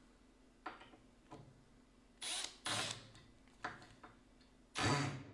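Power drill driving a screw into wood in short trigger bursts, two brief runs and then a longer, uneven one near the end, with a few light knocks of handling between.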